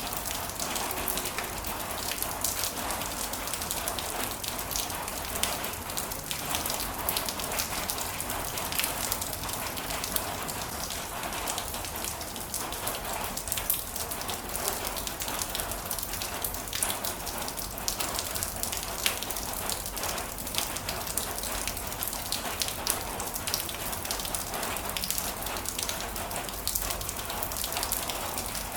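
Heavy rain falling steadily: an even hiss dense with the sharp ticks of individual drops striking close by.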